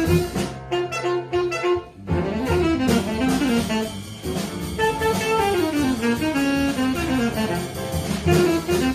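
Live bebop jazz: an alto saxophone leads over bass and drums, playing repeated short notes, then quick rising and falling runs, then the repeated notes again near the end.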